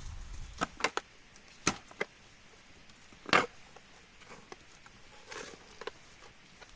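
A handful of sharp knocks and clicks at irregular times, the loudest and longest about three and a half seconds in.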